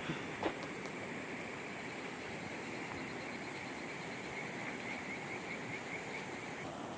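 Steady outdoor rushing noise with a faint high, pulsing call that stops near the end, and a single click about half a second in.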